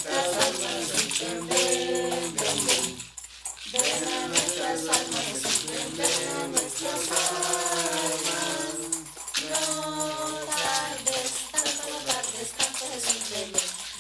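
Voices singing together in Spanish, accompanied by maracas and a tambourine shaken in a steady rhythm, with a short pause about three seconds in.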